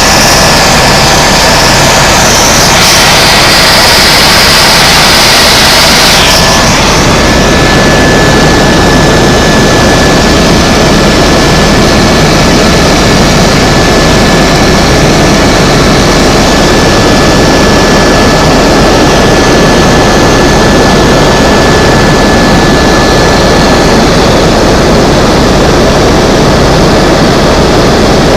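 Loud, steady helicopter turbine and rotor noise with a thin steady whine over it; a high hiss drops away about six and a half seconds in.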